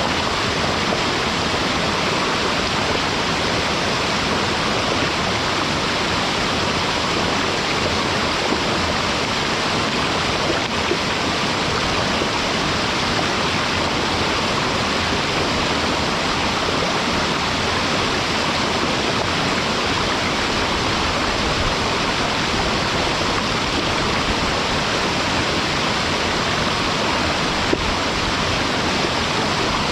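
Waterfall pouring steadily into a mountain stream: a dense, even rush of falling water that does not change.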